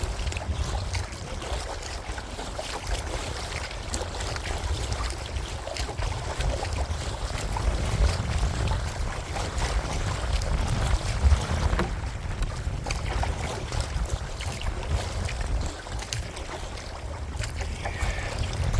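Strong wind buffeting the microphone in low gusty rumbles while a kayak is paddled, paddle blades dipping and splashing in the water.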